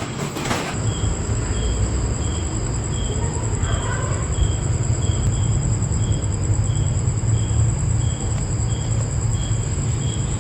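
Insects chirping: a short chirp repeated about twice a second over a steady high trill, with a low steady hum underneath.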